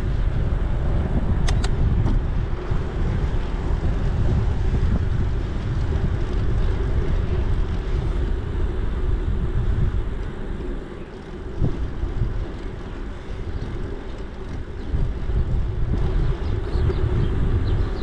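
Steady low rumble of riding a bicycle: wind buffeting the camera microphone along with tyres rolling over the path, easing off briefly about two-thirds of the way through. There are a few faint clicks and chirps.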